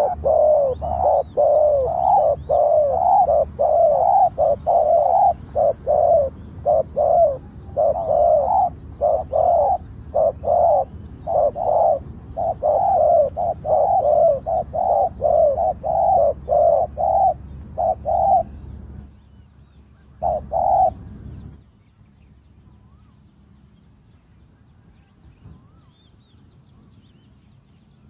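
Spotted doves cooing in rapid, overlapping phrases; the calling stops about 18 seconds in, with one last phrase a couple of seconds later. A low hum runs under the calls and cuts off with them.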